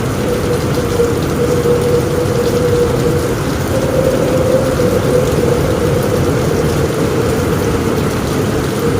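Heavy rain falling steadily on a roof, an even hiss with a strong low end and a steady tone running underneath.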